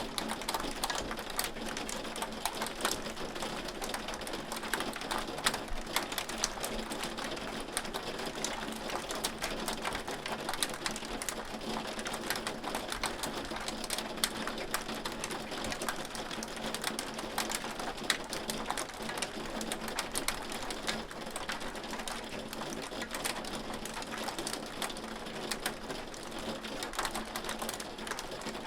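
Hail falling steadily: a dense, irregular rattle of hailstones striking a hard surface, with no let-up.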